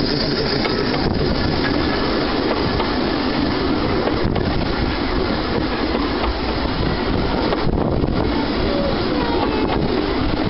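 A 15-inch gauge train running, heard from on board: a steady rumble and rattle of wheels on the track, with a faint wheel squeal near the end.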